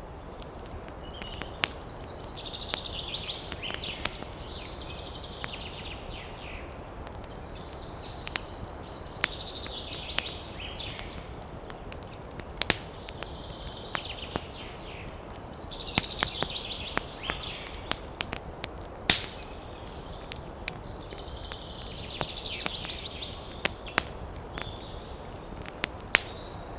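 Campfire crackling, with sharp irregular pops over a steady rushing background. A bird calls in high chattering phrases a few seconds long, repeated about every few seconds.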